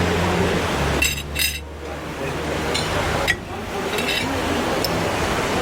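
Tableware clinking lightly at a meal: a quick pair of short ringing clinks, then a few more single ones, over a steady background wash with a low hum.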